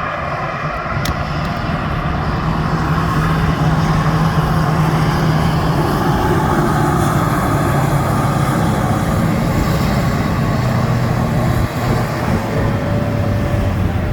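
Heavy diesel truck engine running hard under full load as the truck drags a weight sled in a truck pull, its note sinking somewhat in the second half of the pull.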